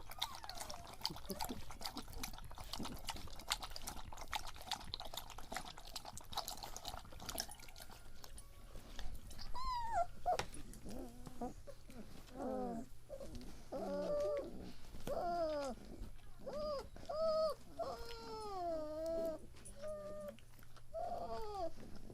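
Three-week-old German Shepherd puppies whimpering and squealing in short, bending cries that come one after another from about ten seconds in, with scratchy rustling and clicking before that.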